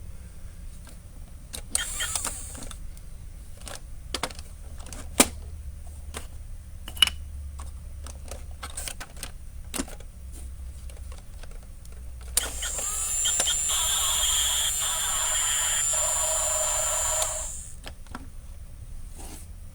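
A few scattered sharp clicks and knocks, then, about twelve seconds in, a motion-activated toy garbage truck switches on: its small electric motor and sound effects run for about five seconds with several steady tones, then cut off suddenly.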